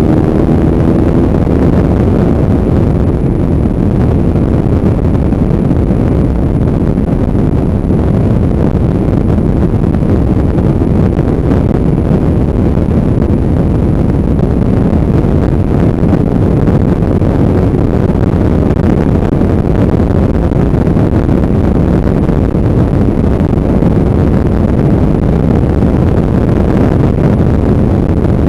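Wind rushing over the microphone while a motorcycle is ridden at speed, its engine running underneath as a steady low rumble. The engine note climbs briefly in the first second.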